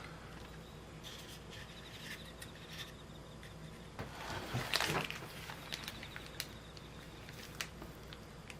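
Light clicks and taps of kitchen utensils and cups being handled, with a louder scrape or rustle about four to five seconds in.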